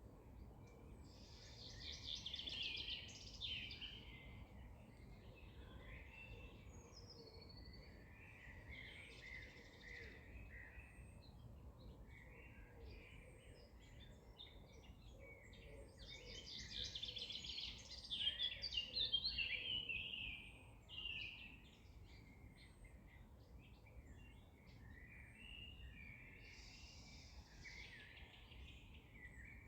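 Songbirds singing in several separate phrases of quick chirps and trills, the loudest about a second in and again past the middle, over faint steady low background noise.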